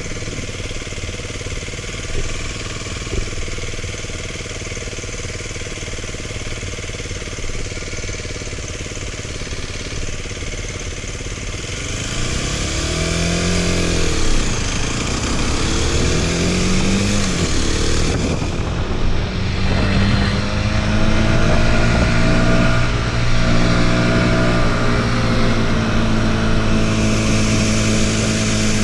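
Motorcycle engine running with a steady low rumble, then revving up and down twice about halfway through, then settling into a steady engine note that climbs slowly in pitch.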